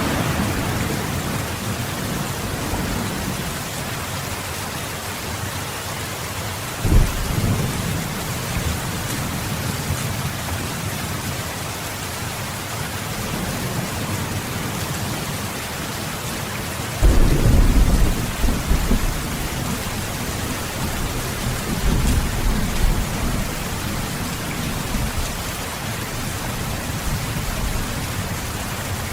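Steady heavy rain, with thunder three times. First comes a short sharp clap. A little past halfway comes the loudest, a rolling rumble of about two seconds, followed by a softer rumble.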